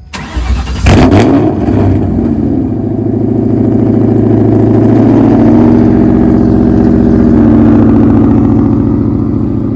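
Car engine cold start: the starter cranks briefly, the engine catches about a second in with a loud flare, then settles into a steady fast idle.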